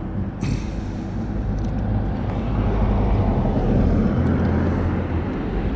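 Mini Crosser mobility scooter's electric drive and tyres rolling along a path, a steady low drone that swells a little about four seconds in.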